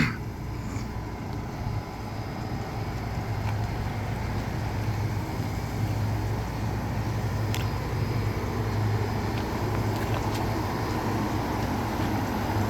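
Sanyo 30 hp refrigeration condensing unit with dual compressors running steadily under refrigerant charging: a low, even hum that swells and eases slightly, with a faint high tone above it.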